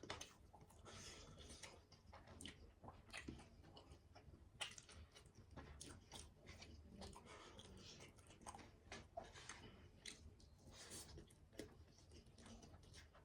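Close-up chewing and eating sounds: quiet, irregular wet clicks and crunches of food being bitten and chewed.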